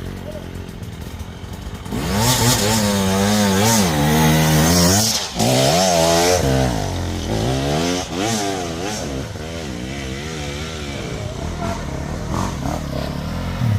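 Enduro motorcycle engine. It runs low at first, then from about two seconds in it revs up and down repeatedly and loudly, with a brief drop in the middle. After that it settles to a quieter, wavering run.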